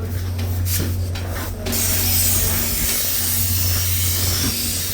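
A loud, steady hiss of escaping air from the train's air brakes starts about two seconds in, over the low hum of idling diesel locomotives. A few short sharp puffs come before it.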